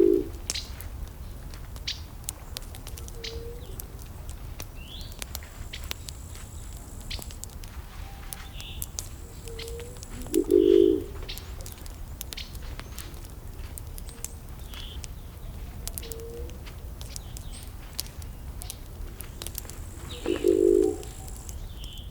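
Wood fire crackling with scattered sharp pops, while birds call in the background: short high chirps, and a louder low call that comes three times about ten seconds apart.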